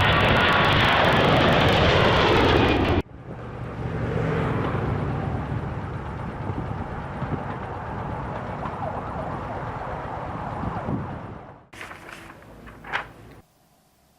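Road vehicle noise in two abruptly cut segments, the first louder and ending sharply about three seconds in, the second running on until near the end; a few short sounds follow before it goes near silent.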